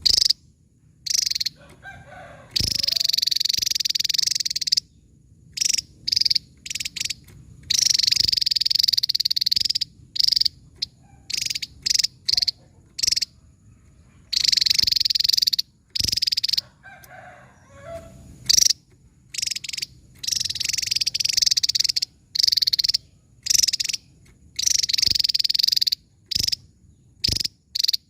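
Javan tesia singing: long, very high, rapid song phrases of about two seconds each, alternating with short sharp notes and brief pauses.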